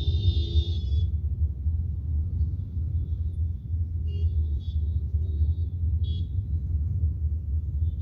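Steady low rumble of a moving vehicle in traffic. A vehicle horn sounds during the first second, and shorter, fainter horn toots follow a few seconds later.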